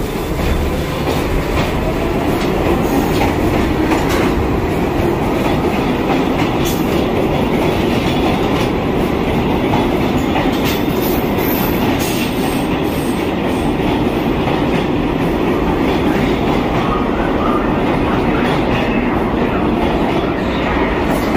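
A New York City subway train pulling out of the station. Its motors whine and rise in pitch for about the first second, then give way to a loud, steady rumble with wheels clicking over the rail joints.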